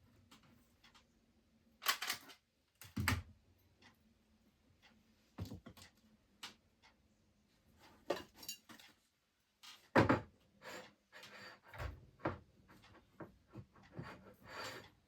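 Irregular knocks, clunks and light clatter of objects being handled and set down, the loudest about 2, 3 and 10 seconds in, over a faint steady hum.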